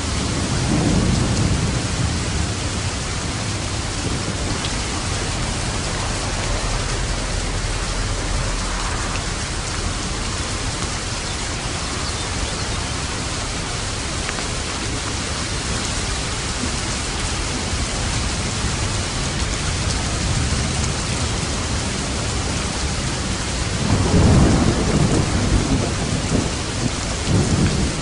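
Steady heavy rain with rolls of thunder: a low rumble about a second in, and a louder one near the end.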